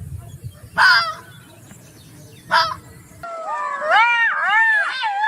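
Birds calling: two short, harsh calls, then after a cut a run of loud, repeated calls that rise and fall in pitch, about two a second.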